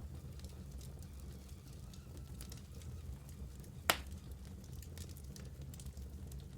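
Wood fire burning in a fireplace: a steady low rumble of flames with scattered small crackles from the logs, and one sharp, loud pop about four seconds in.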